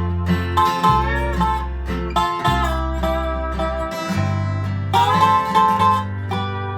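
Instrumental bluegrass tune played on a Dobro resonator guitar, its melody notes sliding up and down in pitch over a steady plucked bass line.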